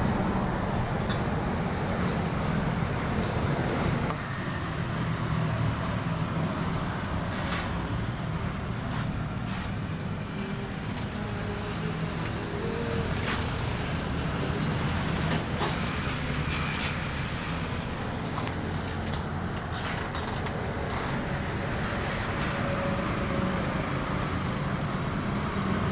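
A vehicle engine running steadily with a low rumble, with a few scattered clicks and knocks over it.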